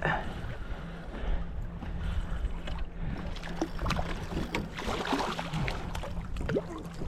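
Water sloshing and splashing against a kayak's hull, with wind on the microphone, a steady low hum underneath and a few short clicks and knocks.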